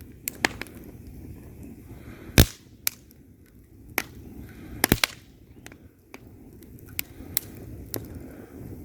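Wood fire burning in a fireplace: sharp, irregular crackles and pops from the logs over a low, steady rumble of the flames, the loudest pop about two and a half seconds in and a quick double pop near five seconds.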